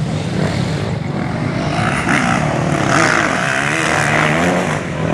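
Motocross bikes' engines running hard at high revs, the pitch dipping and climbing again about three seconds in as the throttle is worked.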